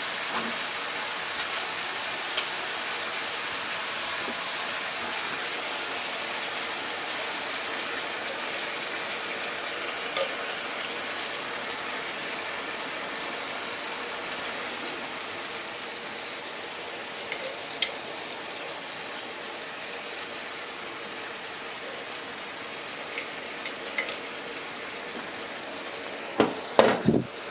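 Chicken and bamboo shoots sizzling in a frying pan over a gas flame: a steady hiss, growing a little quieter partway through, with a few light clicks of a utensil on the pan. Near the end comes a short cluster of louder knocks and scrapes as the food is stirred.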